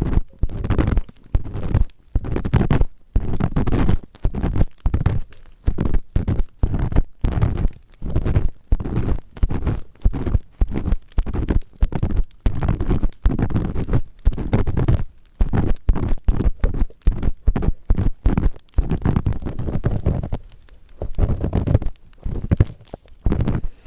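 Ear pick scraping firmly inside the ear of a 3Dio binaural microphone, in repeated short grinding strokes of about two a second, with a brief pause near the end.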